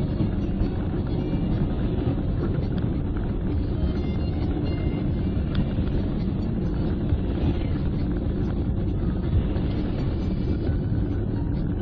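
Car driving at speed: a steady rumble of engine and road noise, as heard from inside the vehicle.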